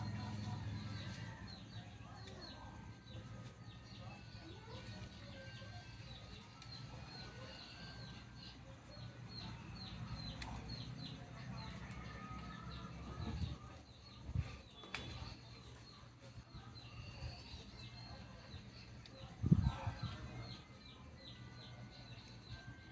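Faint small birds chirping in quick, repeated series over a low steady hum, with a few dull thumps about two-thirds through and one louder thump near the end.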